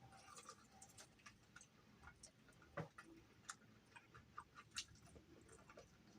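Faint, scattered clicks and crunches of chewing crispy fried chicken, with a few sharper crunches near the middle.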